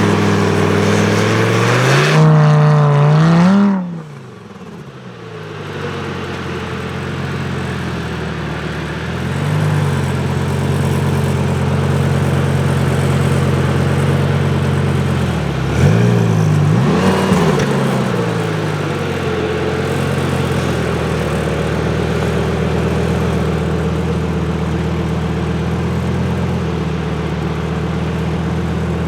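Lamborghini Gallardo's V10 engine revving up, then falling away abruptly as the throttle closes. It then runs steadily on the move, with brief drops and rises in revs about ten and sixteen seconds in.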